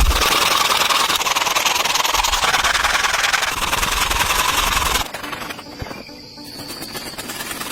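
A small motor running loud with a fast, even buzz, wavering a little in pitch, that stops abruptly about five seconds in, leaving a much quieter background.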